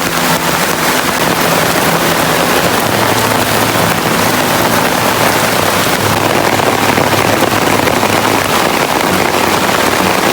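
Steady heavy rain, a dense even hiss of rainfall.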